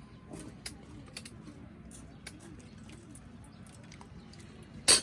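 Scattered light clicks and taps over a low steady background, with one sharp, much louder click near the end.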